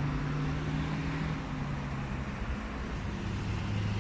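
Steady low engine hum of road traffic over an even hiss, the hum's pitch shifting about halfway through as a vehicle passes.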